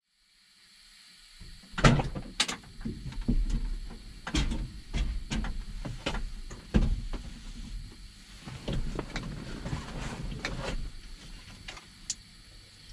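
A run of irregular knocks and clunks over a low rumble, loudest about two seconds in and thinning out near the end.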